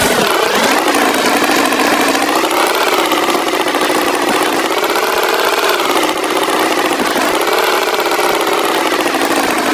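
Tractor engine sound effect running steadily, its pitch slowly rising and falling every two to three seconds.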